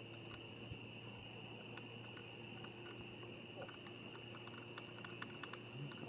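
Faint scattered light clicks over a steady low hum and a thin high whine; the clicks come more often toward the end.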